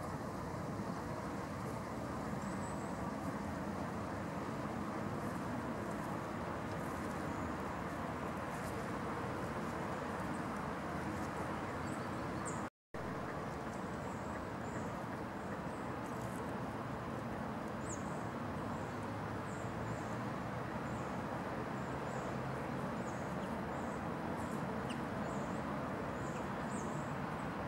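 Steady hum of distant road traffic. Faint, high bird chirps repeat through the second half. The sound drops out completely for a split second about halfway through.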